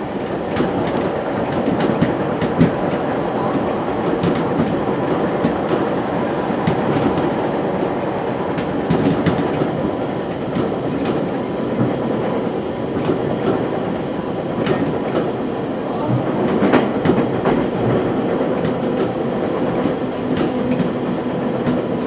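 West Coast Express commuter train running at speed, heard from on board: a steady rumble with frequent sharp clicks and knocks from the wheels on the track.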